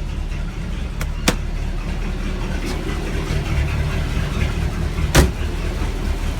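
Mercedes M117 5.5-litre V8 idling steadily shortly after a cold start. Two light clicks about a second in, and a single loud slam about five seconds in.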